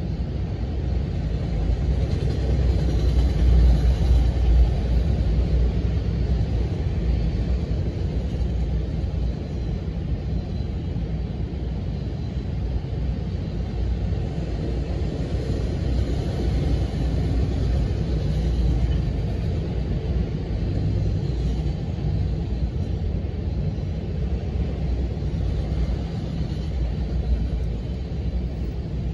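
Freight train of autorack car carriers rolling past, a steady low rumble, a little louder about four seconds in.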